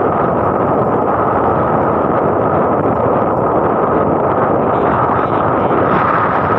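Steady rush of wind and road noise from a moving motorcycle, buffeting the microphone, unbroken and at an even level.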